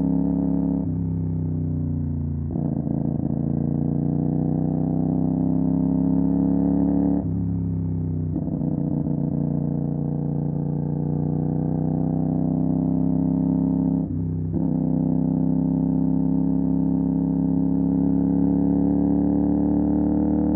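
CFMOTO 450 SR parallel-twin engine running through an MSH G6 full-system exhaust while the bike accelerates. The pitch climbs over several seconds, then drops sharply at each upshift, several times.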